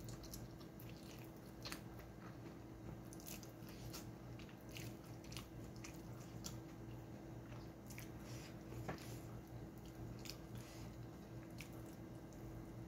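Close-up chewing of a mouthful of spaghetti: many small, irregular mouth clicks and smacks over a faint steady hum.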